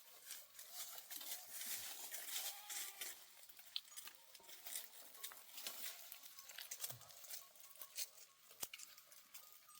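Flock of sheep and goats, with a few faint bleats among many small clicks and taps.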